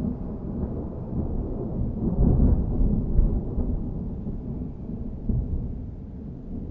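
Thunder rolling as a deep, low rumble that swells about two seconds in and then slowly dies away.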